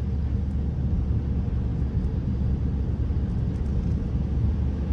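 Steady low rumble of a car's engine and tyres heard from inside the cabin while it drives on a snowy road.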